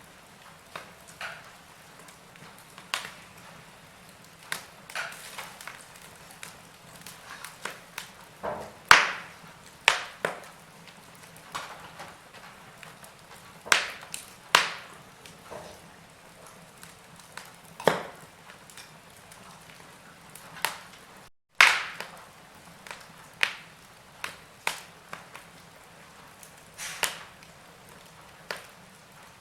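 Wood fire in a fireplace crackling: irregular sharp pops and snaps of varying loudness over a faint steady hiss. The sound cuts out for a split second about two-thirds of the way through, just before one of the loudest pops.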